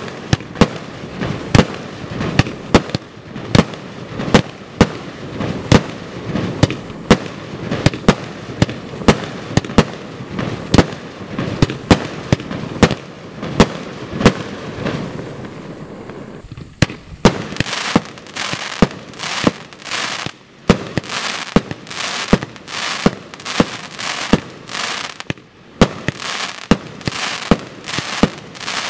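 Multi-shot consumer firework cake firing, sharp reports going off two or three a second with crackle between them. About seventeen seconds in it dips briefly, then fires on with brighter, hissier shots.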